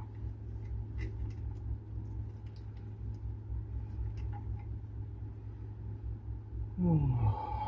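Faint scattered clicks and taps of hands working on transmission wiring over a steady low hum, then a man's short groan falling in pitch near the end.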